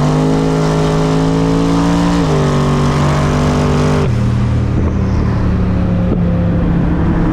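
Twin-turbo Ford Mustang Cobra V8 pulling hard under full boost, its pitch climbing, dipping at a shift about two seconds in and climbing again. About four seconds in the pitch drops abruptly and the engine settles into a steady lower drone.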